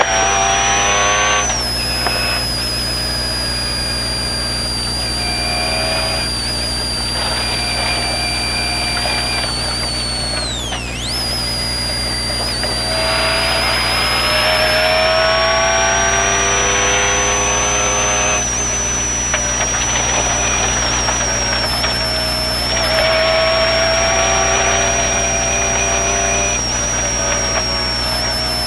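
Mitsubishi Pajero rally car's engine heard from inside the cabin at speed, its revs climbing and dropping again and again through gear changes over a steady low drone. A steady high whine runs above it and dips sharply for a moment near the middle.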